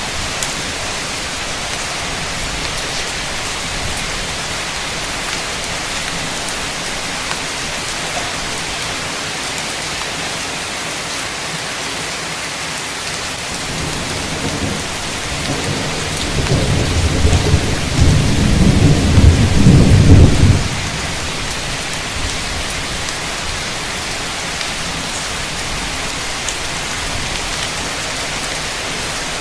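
Heavy rain pouring steadily, with a roll of thunder that builds from about halfway through, rumbles loudest for a few seconds, then stops abruptly.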